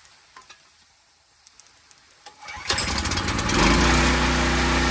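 A pressure washer's gasoline engine starts up about two and a half seconds in, after a few light clicks, and settles into a steady run.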